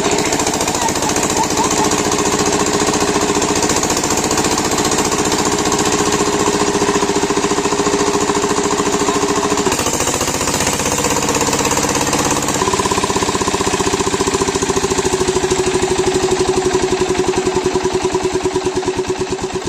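7HP single-cylinder diesel pump-set engine running with a rapid, steady knocking beat as it pumps water. Near the end the beat slows and the sound begins to fade.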